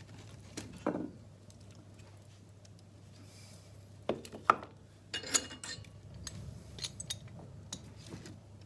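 Wood being added to an open fireplace fire: a few scattered knocks and metallic clinks against the grate, the loudest about four and a half seconds in.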